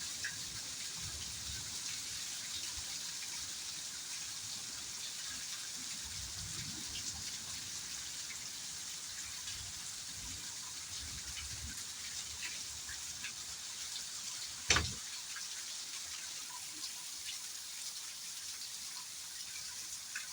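Steady rain, a constant hiss with many separate drops ticking on a surface. About fifteen seconds in, one drop or knock lands much louder than the rest.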